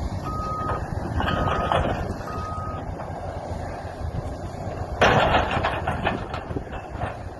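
Heavy demolition machinery running with a low engine rumble while its backup alarm beeps three times, about once a second, then stops. About five seconds in comes a sudden loud crash with crackling and cracking that slowly dies down.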